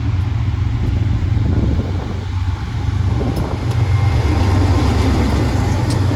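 A heavy engine running with a steady low rumble that grows a little louder about four seconds in, with a faint high whine in the second half.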